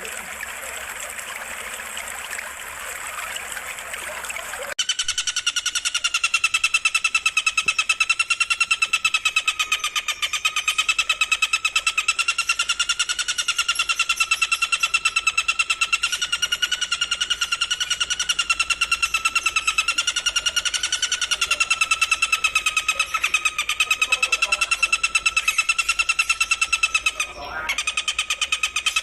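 Gently trickling water, then about five seconds in a continuous, fast-pulsing shrill trill cuts in abruptly and runs on, with a brief break near the end. This is a looped animal-song track from a masteran training recording for songbirds.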